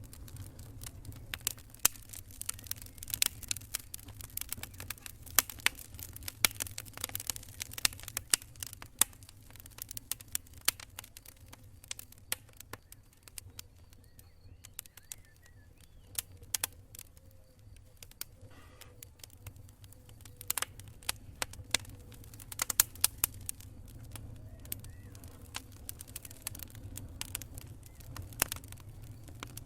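Wood fire crackling, with irregular sharp pops and snaps that thin out for a few seconds midway, over a low steady rumble.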